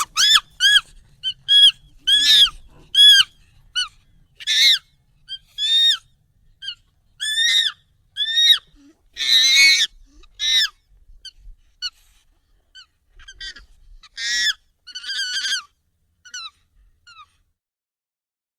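Monkey calls, sped up and pitched up: a string of short, high calls, many in quick succession for the first ten seconds or so, then fewer and fainter, stopping well before the end.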